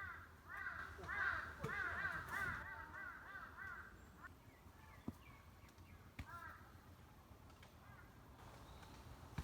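A crow cawing in a fast run of repeated calls, several a second, stopping about four seconds in, with a short burst of calls again around six seconds. Two light clicks fall in between.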